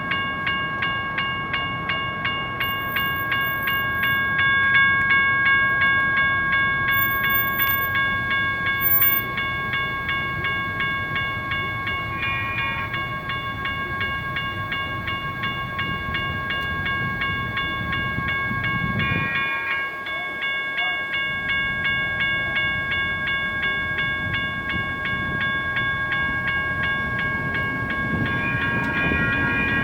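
General Signals Type 1 electronic crossing bell ringing steadily, a fast repeating electronic tone that runs on while the gates are down. A rumble from the passing light rail train sits beneath it, and a brief extra tone sounds three times, about 12, 19 and 28 seconds in.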